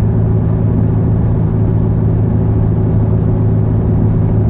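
Steady drone of a car in motion heard from inside the cabin: engine hum and road noise with a constant low pitch and no change in speed.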